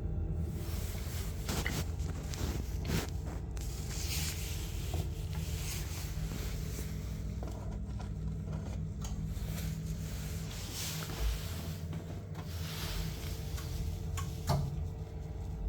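Ideal gas boiler running on central heating with a steady low hum, with scraping, rubbing and occasional knocks of handling on top.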